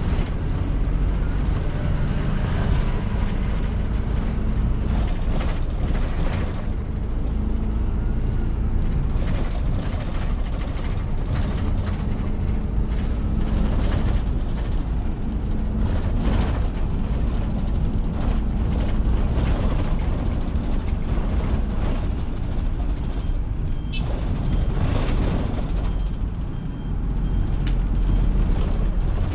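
City bus under way, heard from on board: a steady low engine and road rumble whose drone comes and goes as the bus pulls and eases off, with rattling of fittings and a few knocks over bumps.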